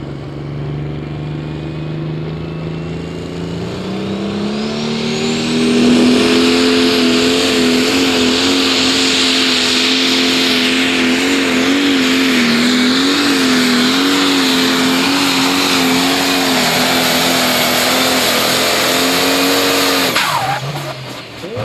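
Pro Stock pulling tractor's turbocharged diesel engine under full load: it builds up over the first few seconds with a high whine rising alongside, then runs hard and loud with its pitch wavering as it drags the sled. About twenty seconds in it cuts back suddenly as the pull ends.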